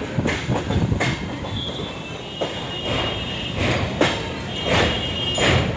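MEMU electric train heard from on board as it runs across a railway bridge: a steady rumble of the wheels on the rails, broken by irregular clattering knocks over rail joints. From about a second and a half in, a thin high squeal from the wheels runs alongside.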